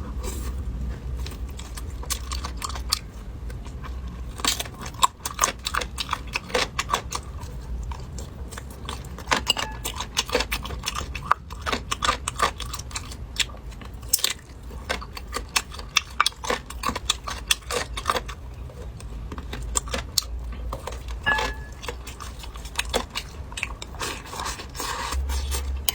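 Close-miked chewing and crunching of pork spare ribs, with many sharp wet clicks and smacks throughout.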